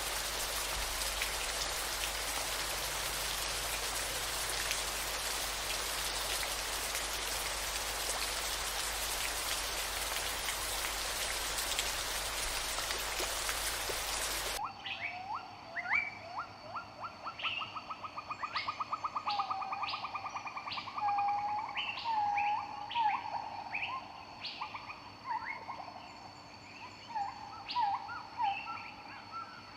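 Steady rain-like hiss that cuts off abruptly about halfway through, giving way to wild birdsong: many short chirps and a fast trill over a faint steady high drone.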